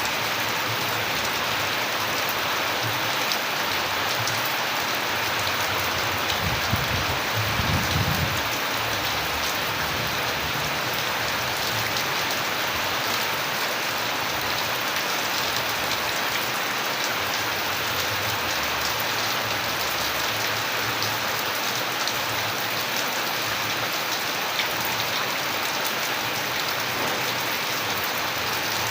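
Steady rain falling, with individual drops ticking on a hard surface. A brief low rumble swells about seven to eight seconds in.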